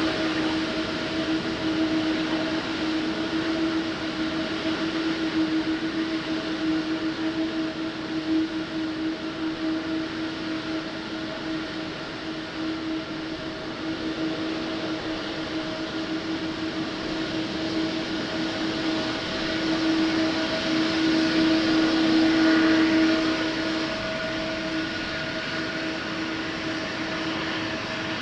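Jet airliner engines running with a steady whine over a rushing noise, swelling louder about twenty seconds in before easing back.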